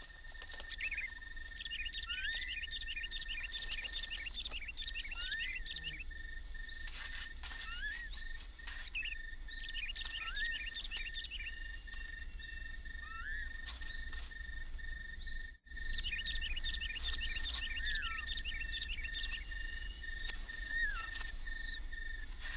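Birds chirping in short rising notes every second or so, with insects buzzing in repeated high bursts and a steady high whine underneath.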